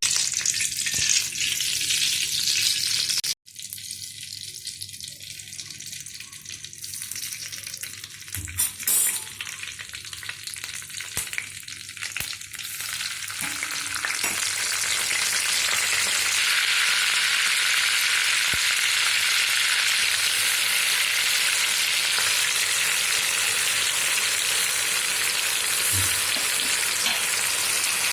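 Food frying in hot oil in a pan, a steady sizzle that grows louder and fuller about halfway through.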